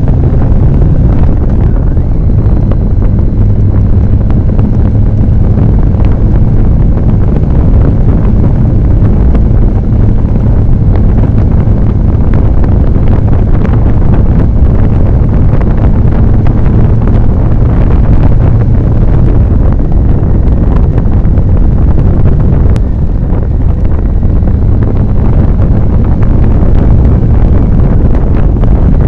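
Motorcycle engine running at a steady cruising speed under heavy wind noise on the microphone. The engine's low hum holds an even pitch throughout, with no revving or gear changes.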